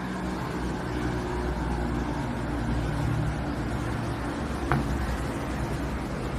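Hair dryer running steadily, a constant rush of blown air with a low hum, and one sharp click near the end.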